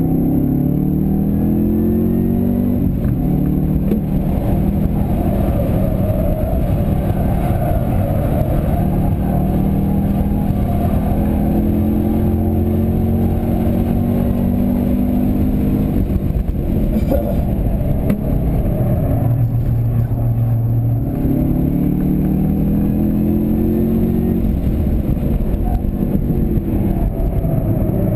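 Stock Chevrolet Camaro ZL1's supercharged 6.2-litre V8, heard from inside the cabin while being driven hard around a race track. The revs climb under full throttle, drop with gear changes, fall low for a corner about two-thirds of the way through, then climb again.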